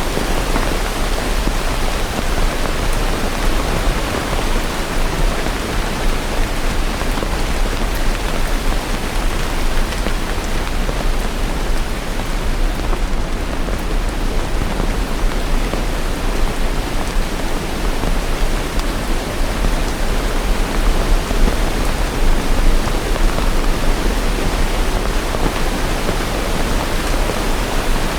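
Steady rain, an even unbroken hiss with a low rumble underneath and no separate drops or thunderclaps standing out.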